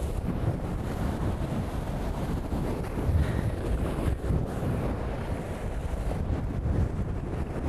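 Wind buffeting the microphone over the rush of water along the hulls of a beach catamaran sailing fast in strong wind. The noise is steady and gusty, with no single event standing out.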